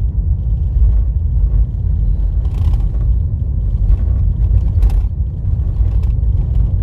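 Car driving on a dirt road: a steady low rumble of tyres and road, with two brief knocks or rattles about two and a half and five seconds in.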